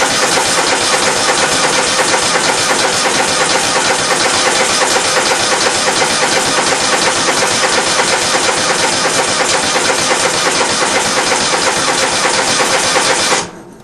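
Electric starter cranking a John Deere L130 lawn tractor's Kohler V-twin engine steadily for about 13 seconds without it firing, then stopping abruptly near the end. The engine won't catch, which the owner later traces to a fuel tank low on gas.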